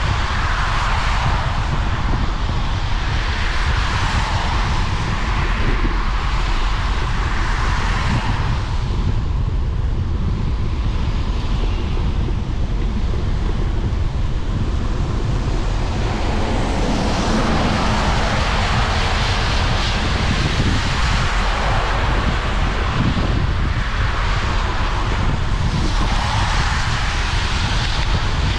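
Wind rumbling on the microphone of a moving bicycle, over a steady hiss of tyres on a wet, rainy path that swells and fades every few seconds.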